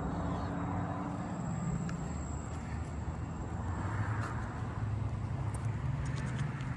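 Low, steady hum of a vehicle engine running, with a few faint clicks.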